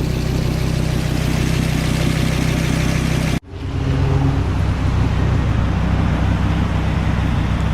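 The 2003 Dodge Viper SRT-10's 8.3-litre V10 idling steadily through its side-exit exhaust pipes. The sound drops out for a moment about three and a half seconds in, then resumes.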